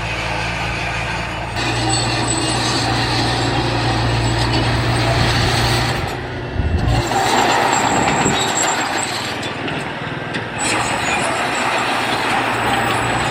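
Heavy diesel earthmoving machinery running under load, a steady engine drone that changes abruptly in character several times.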